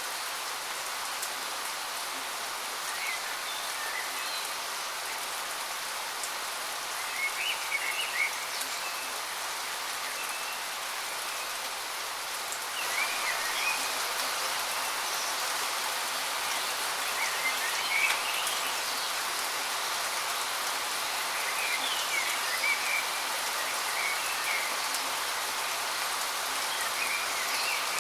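Waterfall's steady rushing hiss of falling water, with a bird giving short chirping calls every four to five seconds.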